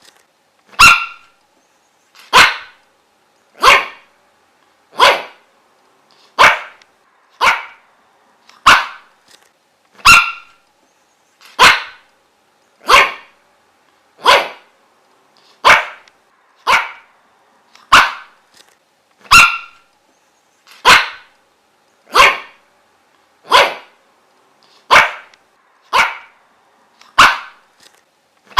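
A dog barking single sharp barks in a steady, even rhythm, about one every second and a half.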